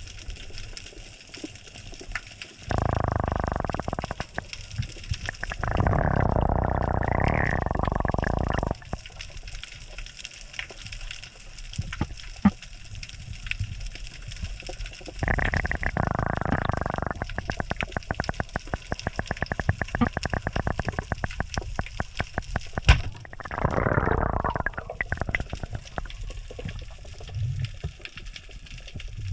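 Water gushing and sloshing, heard through a camera in the sea: four loud rushes of low noise, each one to three seconds long, and a run of fast regular ticks near the middle.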